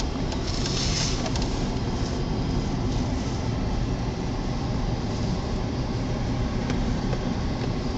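Steady low rumble heard inside a moving car: engine, tyre and wind noise as it drives through a blizzard.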